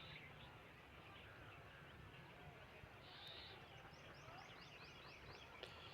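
Faint outdoor ambience with scattered bird calls, including a quick run of high, rapid chirps a little past the middle.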